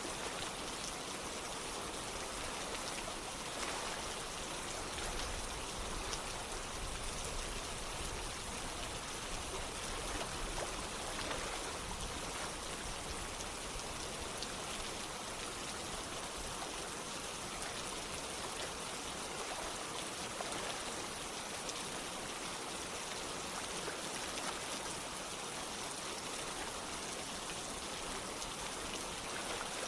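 Steady rain together with running water: an even, unbroken wash of water noise with faint drop ticks scattered through it.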